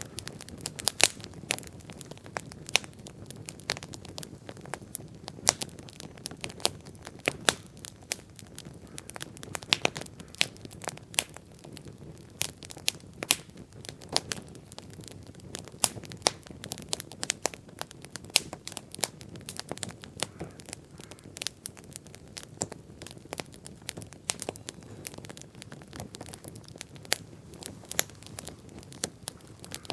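Wood bonfire crackling: irregular sharp pops and snaps, at times several a second, over a steady low noise.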